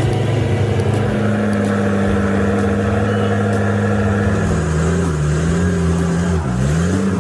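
Heavy truck's diesel engine running under load, a steady low engine note. Its pitch sags a little past the middle, then dips sharply and climbs back near the end.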